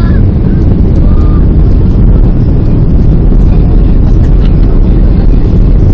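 Airbus A330-200 landing, heard as a loud, steady low rumble of jet engines and rushing air.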